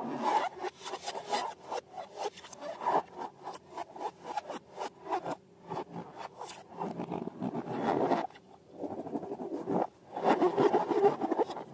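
Close-up rubbing, squeezing and crackling of balloons and slime being handled, in irregular strokes with a couple of brief pauses and the busiest stretch near the end.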